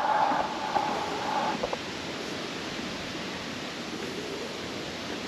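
Steady rushing of a waterfall's falling water, heard as an even hiss. A brief hum sits over it in the first second and a half.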